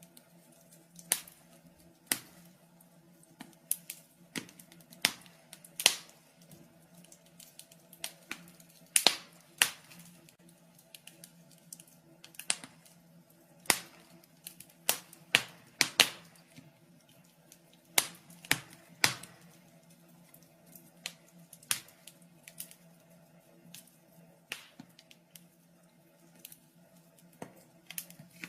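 Wood fire in a fireplace crackling, with irregular sharp pops and snaps of uneven loudness over a faint steady low hum.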